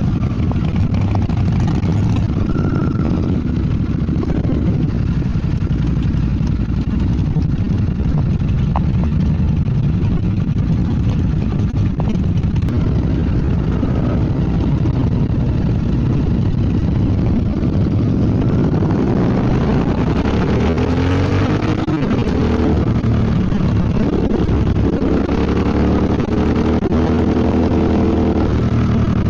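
Royal Enfield Bear 650's parallel-twin engine running on the move, under heavy wind and road rumble. From about two-thirds of the way in, the engine note climbs and falls as the bike changes speed.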